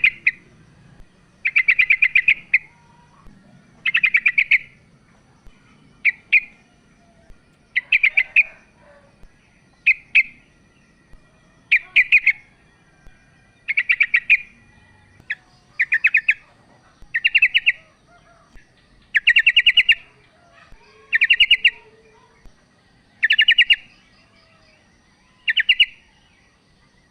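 Female sooty-headed bulbul calling to a male: short bursts of rapid chattering notes, repeated about every two seconds.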